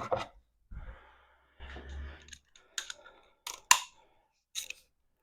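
Tools being handled at work on a lawnmower: two short stretches of scraping or rasping, then a handful of sharp metallic clicks and knocks.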